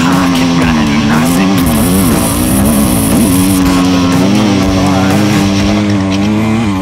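Dirt bike engine running under the rider, its pitch rising and falling as the throttle is worked, with music playing over it.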